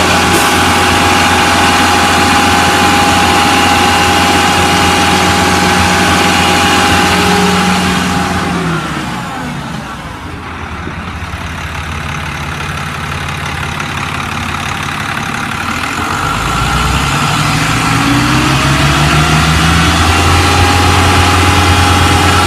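International DT466E inline-six turbo diesel running steadily on its own, not yet at operating temperature, with no cooling fan turning because the fan belt is broken. About eight seconds in its speed and loudness drop off. From about sixteen seconds the pitch climbs back up to the earlier steady running.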